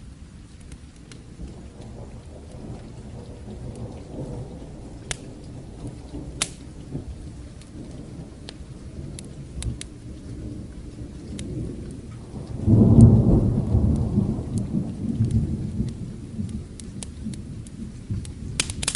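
Distant thunder rumbling low over steady rain, swelling into a much louder rumble about two thirds of the way through that dies away over a few seconds. Sharp pops of a crackling fire come now and then.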